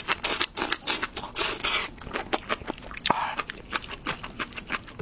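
Close-miked eating sounds: chewing and mouth noises with many sharp clicks and light scrapes.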